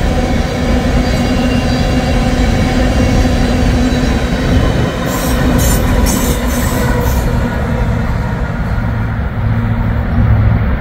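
A full-size train rolling along the rails: a steady, loud rumble with faint, steady squealing tones above it.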